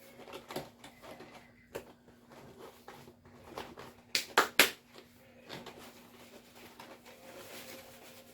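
Scattered light clicks and taps, with a quick cluster of three sharper ones about four seconds in.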